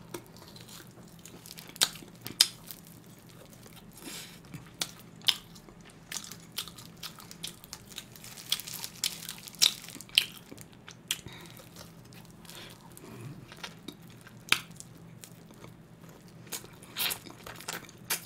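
Biting and chewing grilled pork ribs (jjok galbi), gnawing the meat off the bone, with irregular sharp wet clicks and smacks.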